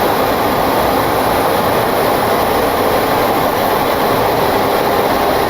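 Steady rushing cockpit noise of a Boeing 727-200 descending on approach with flaps 2 set: airflow and engine noise, even and unbroken.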